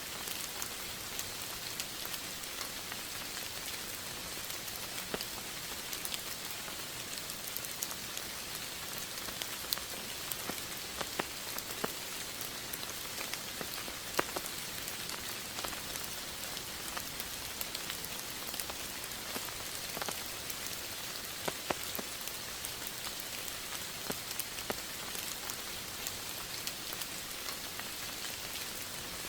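Steady rain falling: an even hiss with scattered louder drops ticking onto a surface.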